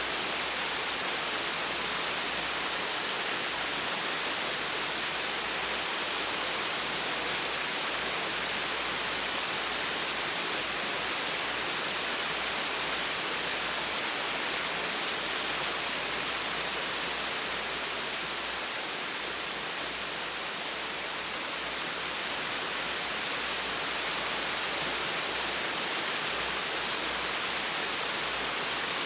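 Small waterfall splashing steadily, a constant hiss of falling water with most of its energy in the upper range. It eases slightly in the middle.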